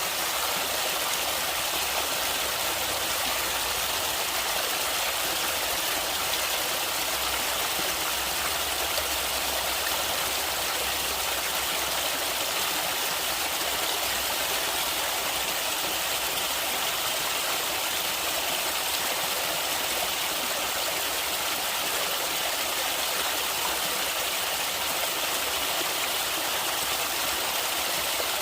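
Natural running water, a stream flowing over rocks, giving a steady, even rush with no breaks.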